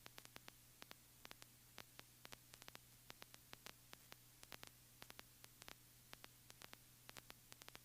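Near silence: faint electrical static with a steady low hum and scattered small clicks.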